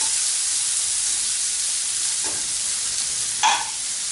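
Guanciale sizzling as it fries crisp in its own fat in a frying pan, stirred and turned. Near the end, a single sharp clink stands out as the loudest sound.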